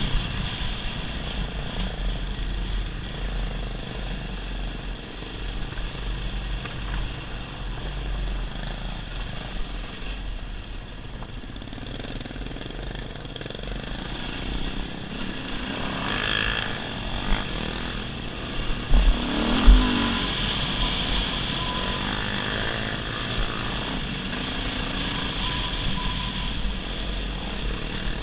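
Dirt bike engine running steadily while riding a trail, with wind buffeting the microphone and a few loud thumps about two-thirds of the way through.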